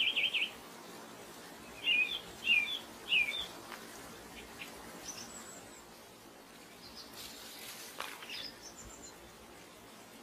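Birds chirping: a quick trill at the start, three separate chirps about two to three seconds in, and several thin, high calls in the second half.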